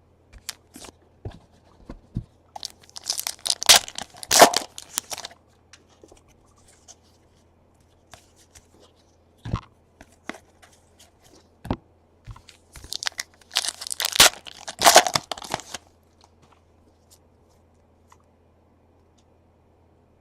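Foil trading-card pack wrappers being torn open in two crinkly bursts, about three seconds in and again around thirteen seconds in. Light clicks and taps of cards being handled come in between.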